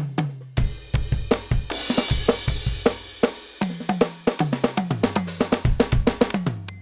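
Electronic drum kit (NUX DM-8) played in a busy run of kick, snare, tom and cymbal hits, the toms ringing with clear pitch. There is a cymbal crash about two seconds in.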